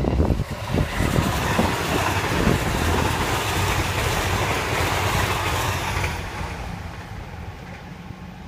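Comeng electric suburban train passing at speed: a steady rush of wheels on rail that fades away over the last couple of seconds as it recedes. Wind buffets the microphone at the start.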